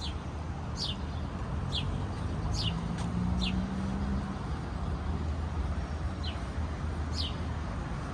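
A small bird repeating a short, high, downward-sliding chirp about once a second, over a steady low rumble of traffic.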